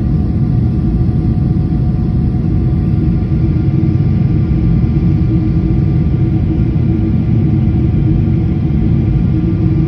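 Boeing airliner in flight, heard from inside the cabin: a loud, steady rumble of jet engines and airflow with a few faint steady tones on top.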